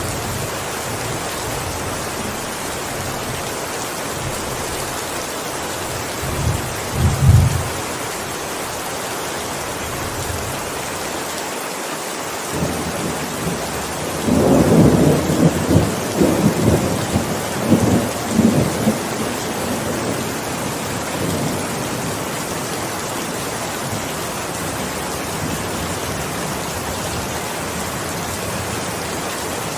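Steady heavy rain, with a short low rumble of thunder about a quarter of the way in and a longer, louder rolling peal of thunder near the middle.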